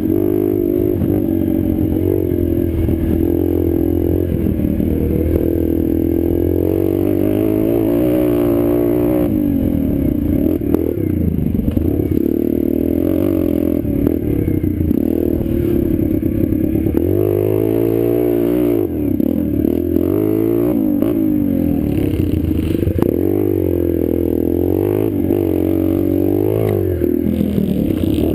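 Small single-cylinder pit bike engine being ridden hard, its pitch climbing and dropping over and over as the throttle is opened and shut through the gears.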